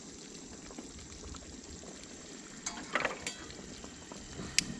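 Pork chops simmering in gravy in a pan on a camp stove, a steady soft bubbling. A few short knocks come about three seconds in, and one sharp tick near the end.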